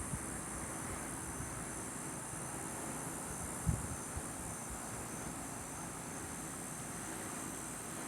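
Steady outdoor night ambience of crickets chirping, a constant high-pitched insect hum over a faint hiss. A few short low bumps sound about four seconds in.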